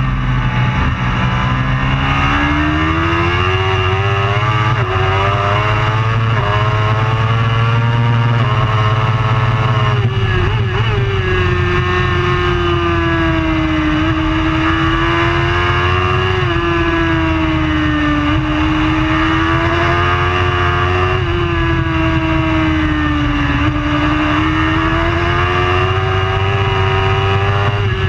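Superbike engine running hard at high revs, its pitch repeatedly climbing and falling, with sudden jumps in pitch at gear changes.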